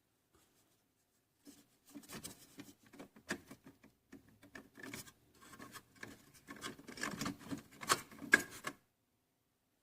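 Irregular rubbing and scraping with sharp clicks, like something being handled. It starts about a second and a half in and stops shortly before the end, with the loudest clicks near the end.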